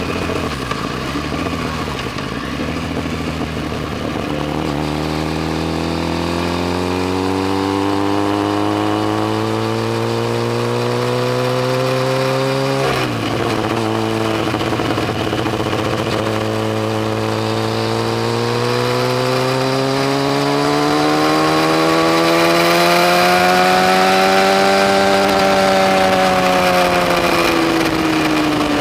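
Yamaha FZ1's inline-four engine under acceleration: its pitch climbs steadily, drops sharply about halfway through as it shifts up a gear, climbs again, then falls away near the end as the throttle eases off.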